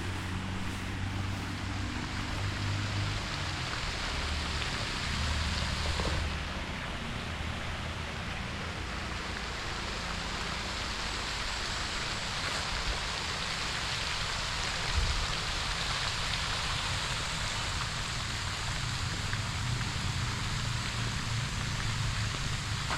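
Steady outdoor noise: an even hiss with a low rumble underneath.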